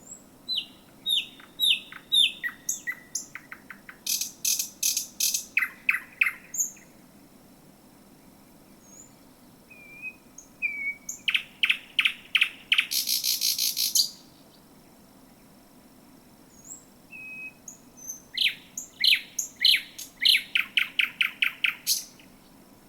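Thrush nightingale singing three song phrases, a few seconds apart, each built of falling whistled notes, fast series of sharp clicking strokes and a dry rattle.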